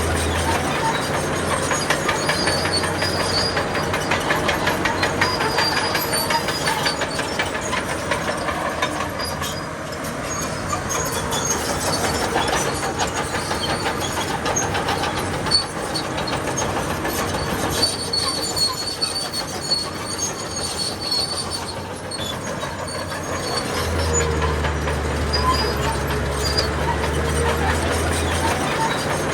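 Crawler bulldozer at work: its steel tracks clank and squeal continuously over the diesel engine, which is heard as a deep steady hum at the start and again near the end.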